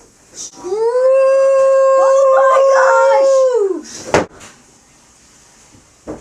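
A long howl held at one steady pitch for about three seconds, with a second, wavering howl joining in the middle. A sharp knock follows about four seconds in, and a short click comes near the end.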